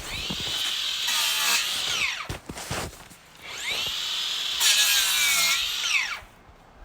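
Handheld electric power tool run twice, for about two seconds and then about three, its motor whining up to speed and winding down each time, most likely as it cuts the tree's wood.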